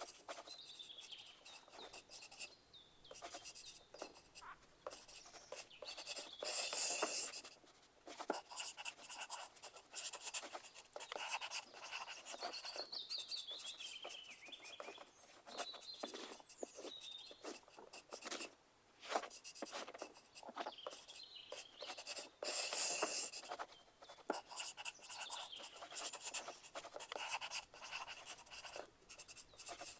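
Pencil writing on paper in quick, irregular scratching strokes, with two louder stretches of fast scratching about a quarter of the way in and again about three-quarters through. Faint bird chirps come and go in the background.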